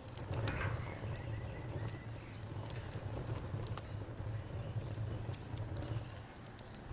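Campfire crackling with scattered sharp pops, over crickets chirping in a high, evenly repeating trill and a low steady rumble.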